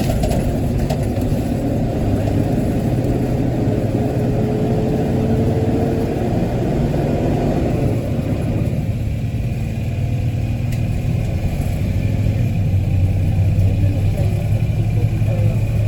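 Transit bus engine and its cooling fan running steadily, heard from inside the bus as a loud low drone. A faint high whine comes in about two-thirds of the way through.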